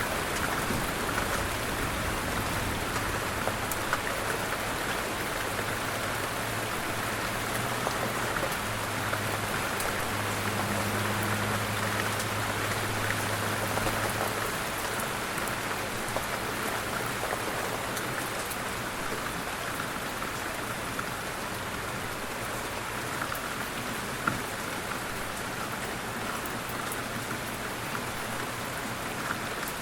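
Light rain falling steadily, a continuous patter of drops on a surface. A low steady hum sits underneath through the first half and then fades, and one sharper drop stands out a few seconds before the end.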